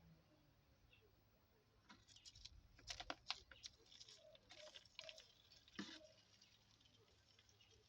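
Faint scratching and clicking, a run of short, irregular scrapes and taps lasting about four seconds, starting about two seconds in.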